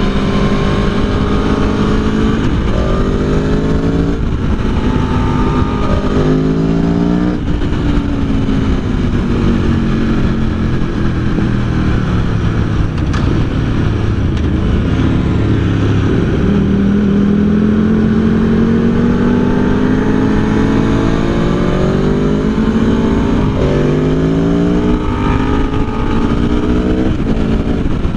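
Aprilia Tuono V4 1100's V4 engine under hard acceleration, its pitch climbing in each gear and dropping at each upshift, then falling away as the bike slows for a turn before climbing through the gears again. Heavy wind rush on the onboard microphone throughout.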